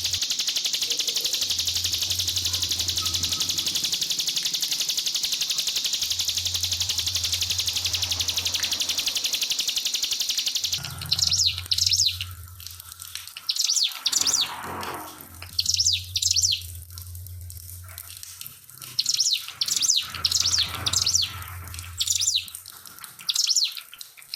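Steady trickling water for about the first eleven seconds, then a ciblek (prinia) singing in short, rapid high bursts with brief pauses between them to the end.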